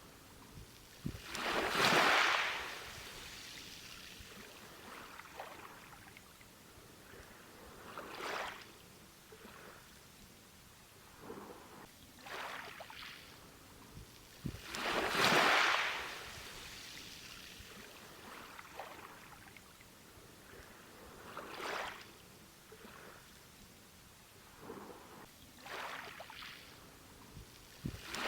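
Ocean waves breaking on a beach and washing back, each surge swelling and fading over a second or two. The biggest breakers come about two seconds in and again around fifteen seconds, with smaller washes between.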